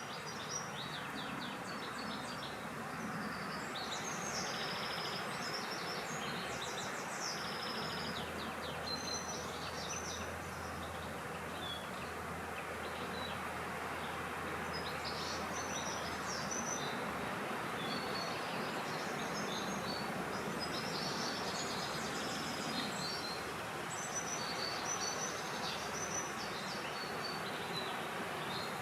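Many small birds chirping and trilling on and off over a steady rush of wind.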